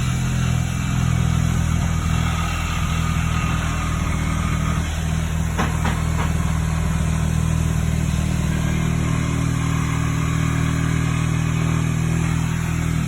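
An engine running steadily at a constant speed, with two short knocks about six seconds in.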